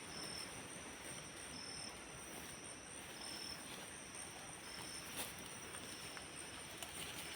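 Night insects in a forest: a steady high-pitched trill, with a shorter high call repeating about every second and a half, over a faint hiss. A single faint click about five seconds in.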